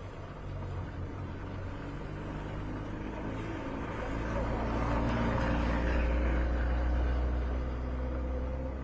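A motor vehicle's engine running, swelling to its loudest from about four to seven seconds in, then easing off.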